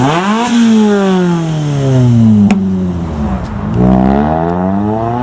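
Car engine being revved: the pitch rises sharply, falls away slowly over about three seconds, then climbs again in a second rev near the end.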